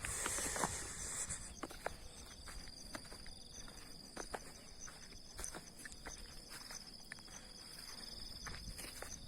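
Insects trilling steadily at a high pitch with an even pulsing chirp, joined by scattered short clicks and crunches of footsteps on the ground.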